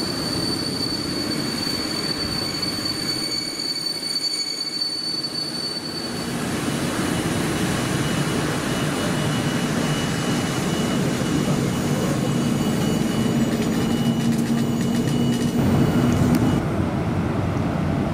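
A train running past on the rails, with a steady high-pitched wheel squeal. The squeal drops to a lower pitch about six seconds in and stops shortly before the end.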